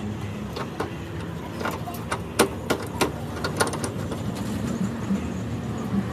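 A quick run of about ten sharp knocks or clicks over a steady low hum.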